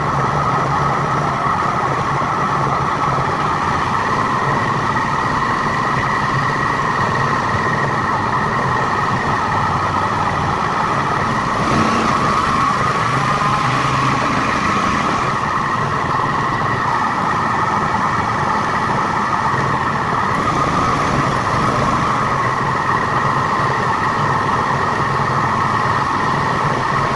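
A road vehicle driving, with steady engine and road noise that swells slightly about halfway through. The footage is played at 1.5 times speed, which raises the pitch.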